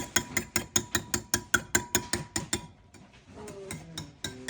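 Rapid, even mechanical clicking, about six or seven clicks a second. It stops a little past the middle and starts again near the end.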